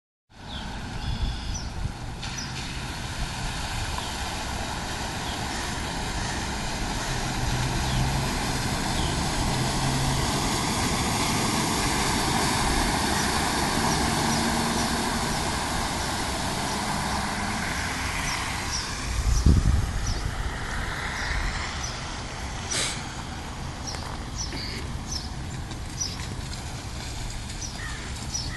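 A vehicle engine passes, swelling and fading, over a steady rush of floodwater. There is a low thump about two-thirds of the way through, and small birds chirp throughout.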